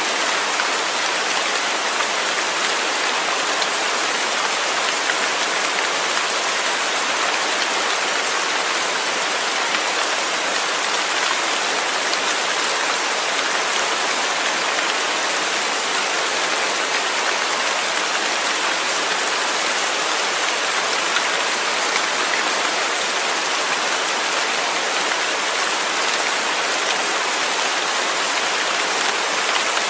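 Steady, even rainfall, a dense patter of drops on a surface with no breaks or changes.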